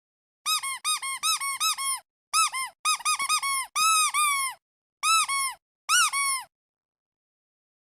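Squeaky rubber duck toy squeezed over and over: a quick string of short, high squeaks, each rising and falling in pitch, in bursts of several at a time, stopping a little over a second before the end.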